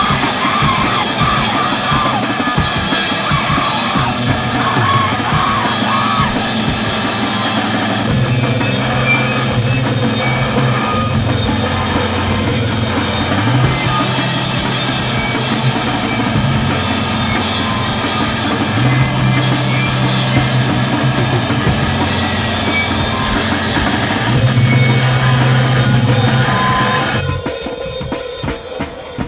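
Screamo band playing live at full volume: distorted rock instruments, held bass notes and a pounding drum kit, with screamed vocals in the first few seconds. The song stops abruptly near the end, leaving crowd noise.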